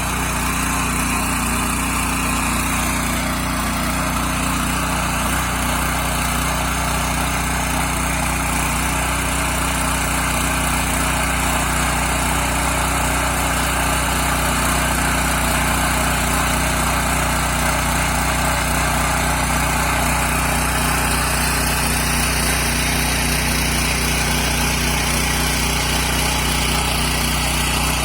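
Small single-cylinder engine of a walk-behind tractor (motoblock) running steadily at an even speed.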